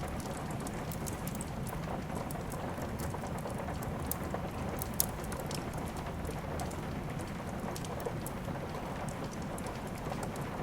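Steady rain mixed with a fire crackling: an even hiss of rainfall with scattered sharp pops and ticks, one louder pop about five seconds in.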